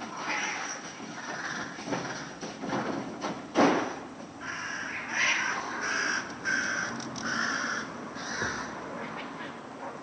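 Cat fight: harsh yowling and hissing, with a sharp knock about three and a half seconds in, then a run of about six short, harsh cries.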